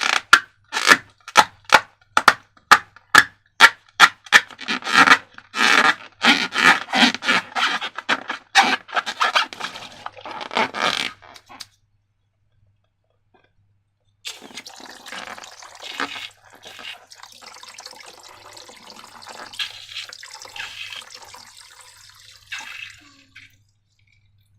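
Slime being worked by hand: a fast run of sharp wet clicks and squelches, two or three a second, for about eleven seconds. After a short pause come quieter, continuous wet, slithering sounds.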